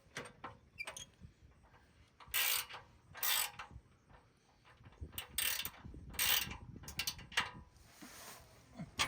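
Hand ratchet wrench clicking in short strokes, turning bolts, several separate bursts with pauses between them.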